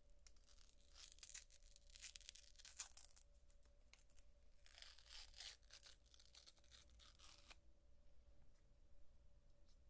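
Gum chewing with wet, crackly smacking in two bouts of about three seconds each, then near quiet.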